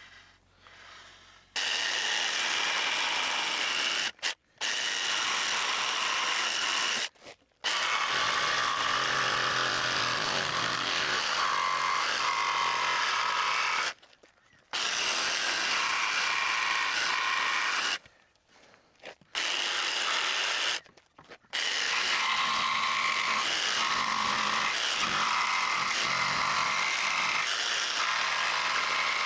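Power saw cutting a check-out in a timber decking board so it fits around a post. It runs in long cuts of several seconds with a handful of short pauses between them.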